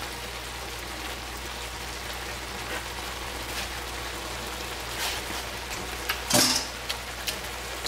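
Steady sizzling of the cornstarch-thickened sauce in the hot pan, with a couple of short knocks about five and six seconds in.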